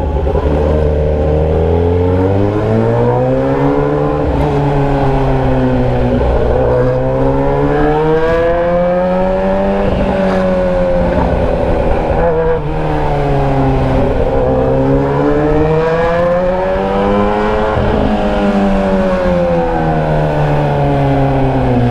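Motorcycle engine running without a muffler, its exhaust coming straight out of a bare open pipe, loud. Engine speed climbs and falls again every few seconds as the rider accelerates and eases off.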